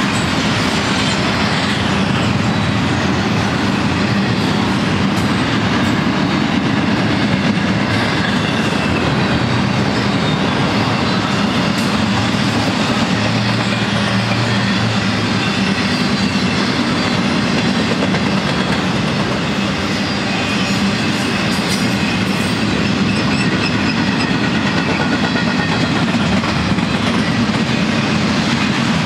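Intermodal freight train's double-stack container and trailer cars rolling past steadily, steel wheels running on the rails.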